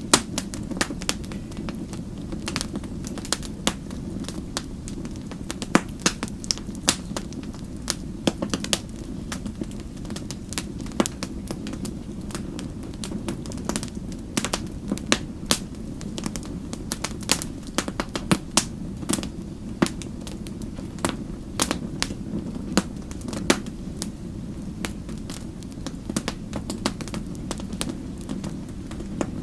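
Wood fire burning, with a steady low rumble of flame and frequent sharp, irregular crackles and pops.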